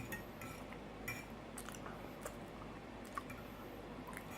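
A person chewing food close to the microphone, with faint wet mouth clicks scattered through it.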